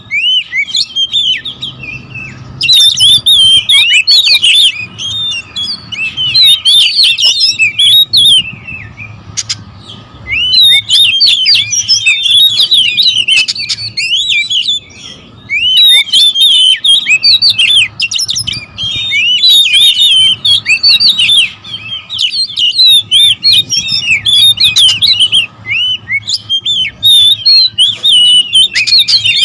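Several Oriental magpie-robins calling at once in a noisy territorial squabble: rapid, squeaky, sweeping chirps and whistles in bursts of a few seconds with short lulls between them.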